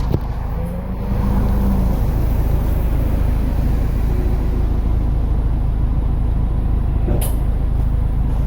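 Steady road and engine noise heard inside the cabin of a car moving at highway speed, with one sharp click about seven seconds in.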